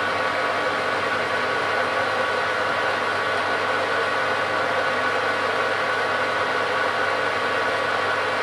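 Metalworking lathe running at a slow spindle speed while a parting-off tool cuts through a nylon bar: a steady motor and gear whine with a constant hiss.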